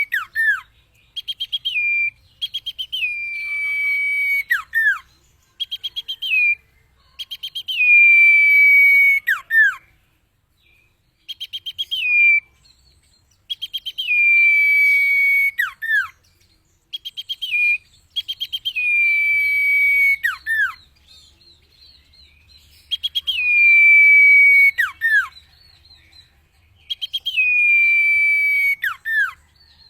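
Common iora (cipeuw) singing: repeated phrases, each a quick stutter of short notes, then a long whistle that slides down and holds, ending in a sharp downward note. About seven such phrases, with short gaps between them.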